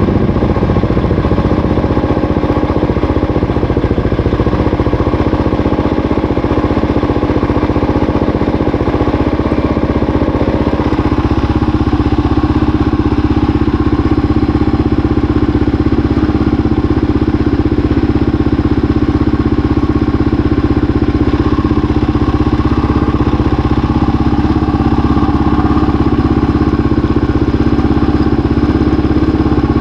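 A 650 cc single-cylinder dual-sport motorcycle engine running steadily while riding, with a small shift in pitch about eleven seconds in.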